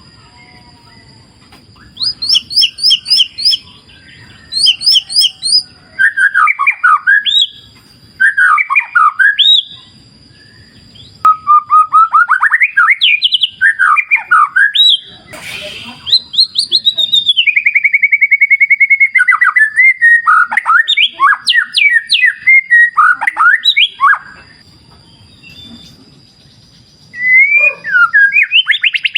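White-rumped shama singing loud, varied phrases of whistles, quick chips and trills, with short pauses between phrases. A long rapid trill comes about two-thirds of the way through. A steady high tone runs underneath.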